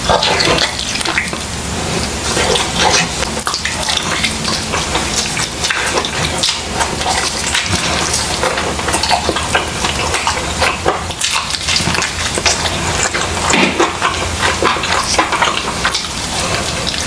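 Close-miked wet chewing and lip-smacking while eating grilled chicken: a dense, continuous run of moist clicks and squelches.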